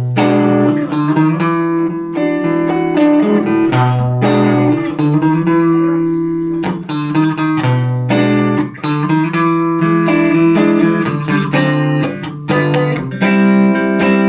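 Van Zandt Telecaster through a Roland JC-120 amp playing a solo song intro: picked chords over a bass line that steps up and down, starting abruptly.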